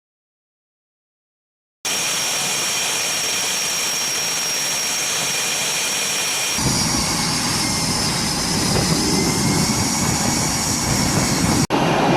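Jet engine running with a steady high whine over a rushing noise. It starts abruptly about two seconds in, and partway through a cut gives way to a deeper, rumbling engine sound.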